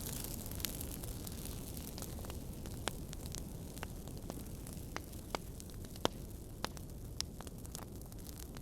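Wood fire crackling: sharp, irregularly spaced pops over a steady low rumble and hiss, the loudest pop about six seconds in.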